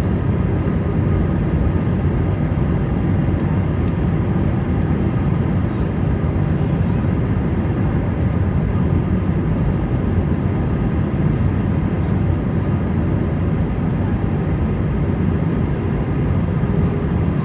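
Airbus A320 jet engines running, a steady low rumble with a faint whine above it.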